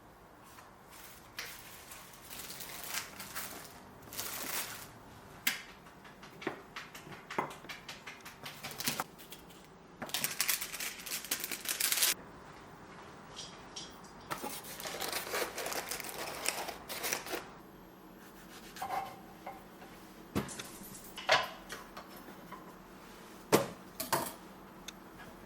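Kitchen food-preparation sounds: scattered clicks and knocks of utensils and dishes, with two longer stretches of rustling or scraping.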